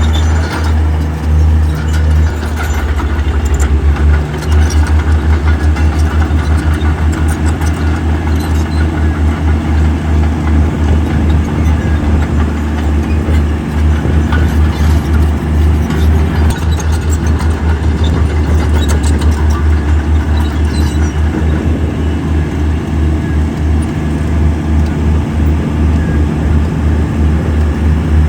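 Heavy diesel engine of earthmoving equipment running with a deep, steady pulsing note, getting a little louder about three or four seconds in.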